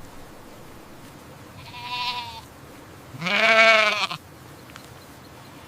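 Animal bleating: a fainter short bleat about two seconds in, then a louder, longer, wavering bleat about a second later.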